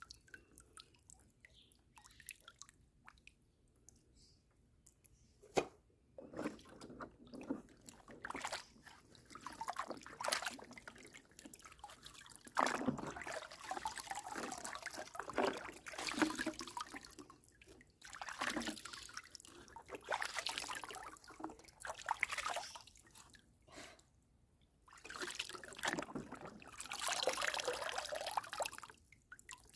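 Water trickling, dripping and sloshing in irregular spells, with short quiet gaps.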